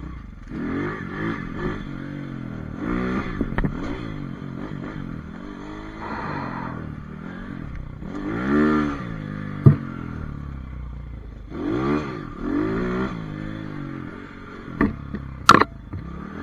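Pit bike's small single-cylinder engine revving up and falling back again and again as it is ridden. A few sharp knocks and clatters cut through, the loudest about ten seconds in and near the end.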